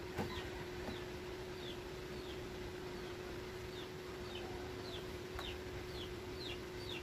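A small bird chirping over and over, short falling chirps repeated about every half second to second, over a steady low hum.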